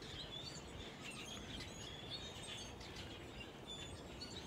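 Birds chirping: faint, short high chirps repeated many times over a low steady outdoor background hiss.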